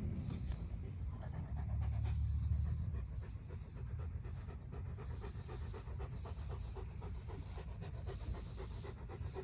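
Dog panting quickly and steadily, in short even breaths, with a low rumble underneath for a moment around two seconds in.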